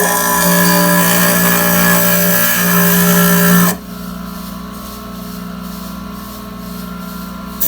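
Diamond Max flat surface glass grinder running with a steady motor hum, a piece of stained glass being ground on its water-fed diamond disc with a loud harsh grinding noise for the first four seconds or so. The grinding stops and only the motor hum is left, then the grinding starts again near the end.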